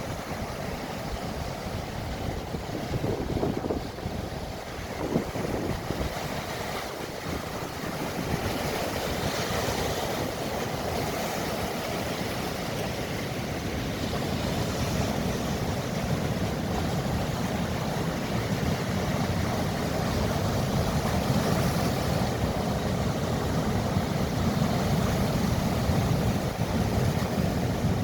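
Sea waves with wind noise on the microphone: a steady rushing wash that grows somewhat louder and deeper through the second half.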